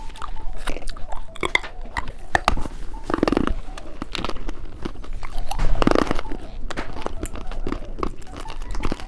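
Close-miked eating sounds of a small hard-candy lollipop being bitten and crunched, with many sharp cracks and wet mouth noises. Two louder, fuller mouth sounds come about three and six seconds in.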